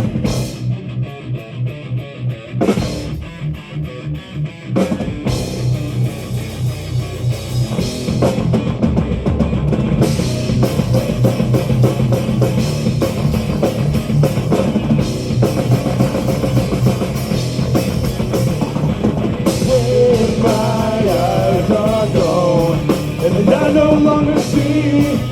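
Live metal band playing the instrumental intro of a song: electric guitars, bass and drum kit. It starts sparse for the first few seconds and fills out into the full band from about five seconds in, building toward the vocals.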